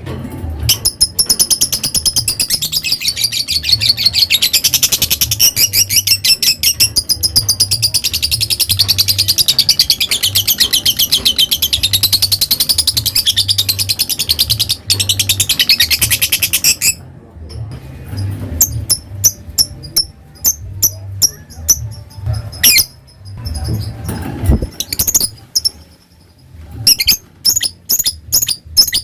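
A lovebird giving a long, unbroken, rapid chatter (the prized long "ngekek") for about sixteen seconds, then breaking into separate short, sharp chirps ("ngetik" ticking calls) with gaps between them.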